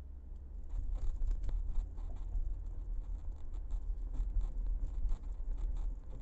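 Low, steady vehicle road rumble heard from inside a car, with irregular light ticking and scratching noises starting about a second in.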